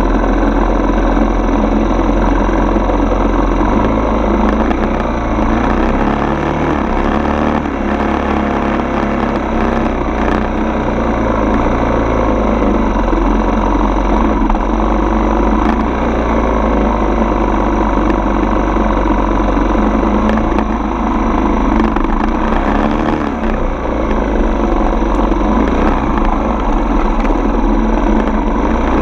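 Four-stroke single-cylinder dirt bike engine running steadily while riding, its pitch rising and falling slightly around the middle as the throttle changes.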